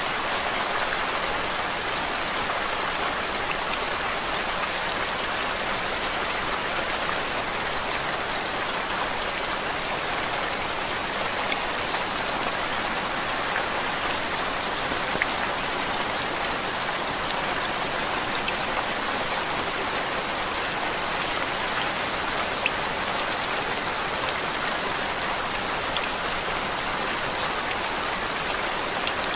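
Steady rain played as white noise: an even hiss with scattered small drop ticks, unchanging throughout.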